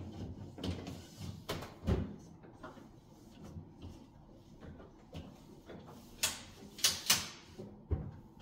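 A soapy cloth wiping refrigerator shelves, with scattered knocks, clunks and short rubbing sounds as the cloth and hand bump and drag along the shelves and inside walls. The loudest knock comes about two seconds in, and a cluster of sharper scrapes comes near the end.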